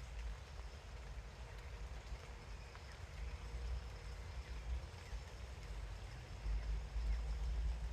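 Steady rain falling, with a few faint drop ticks, under a low wind rumble buffeting the microphone that swells stronger near the end.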